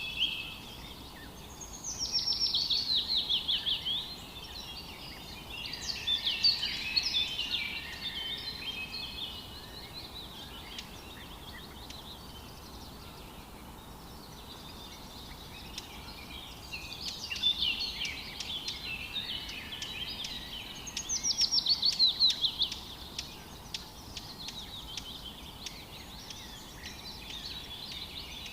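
Bird singing in phrases of quick high notes, some phrases falling in pitch like a trill, a few seconds apart with a long pause in the middle, over a steady background hiss.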